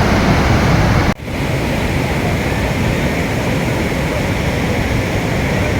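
Loud, steady rush of a river in flood, with a sudden brief dropout about a second in where the sound cuts and resumes.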